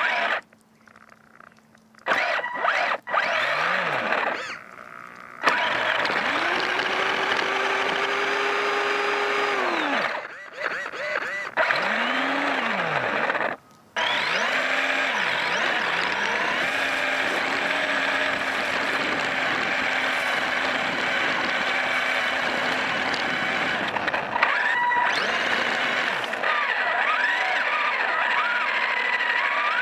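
Electric motor and drivetrain of a Vaterra Twin Hammers RC crawler whining, the pitch rising, holding and falling several times with the throttle. The sound cuts out abruptly a few times.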